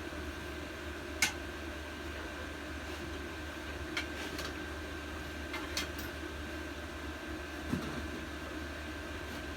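A few light, sharp metal clicks and clinks of hand tools and parts as a small engine is unbolted from its stand, scattered over a steady background hum.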